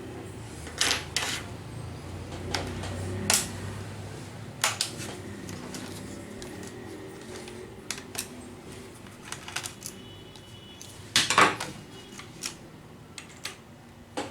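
Scattered clicks and light taps of a screwdriver and small screws on a laptop's plastic base as screws are taken out, with a louder clatter about 11 seconds in.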